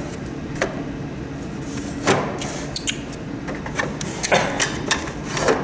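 Plastic parts of a humidifier being handled during disassembly: a series of clicks and knocks, the loudest about two seconds in.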